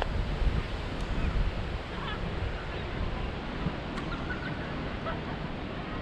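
Wind buffeting the microphone as a steady low rumble, with a few faint short bird calls over it.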